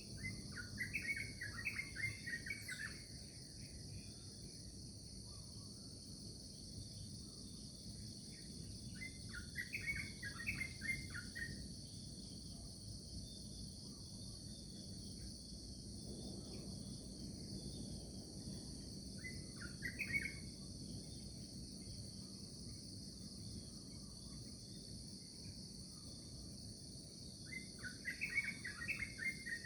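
Steady high-pitched insect chorus, like crickets, with bird chirping in short bursts four times: near the start, about ten seconds in, about twenty seconds in, and near the end.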